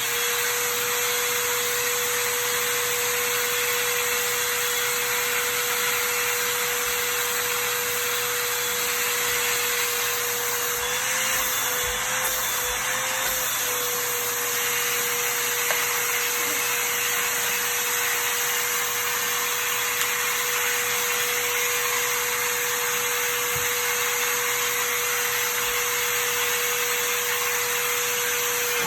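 Hoover vacuum cleaner running steadily: a constant motor tone over a loud rushing hiss, the pitch wavering briefly about eleven seconds in.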